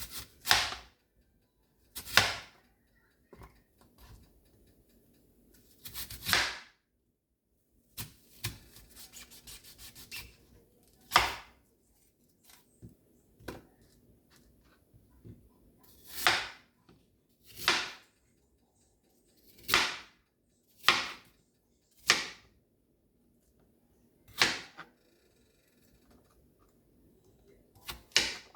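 Short scraping or swishing sounds, about a dozen at irregular intervals, each about half a second long. About eight seconds in there is a brief run of fast, light ticks.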